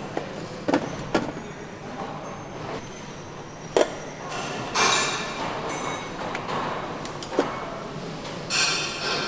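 Engine assembly shop noise: scattered metal knocks and clanks, four sharp ones standing out, with two short hisses over a steady background hum.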